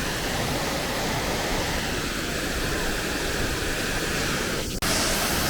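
Steady rushing roar of a large waterfall, Ouzoud Falls. It breaks off for an instant near the end and comes back louder and brighter.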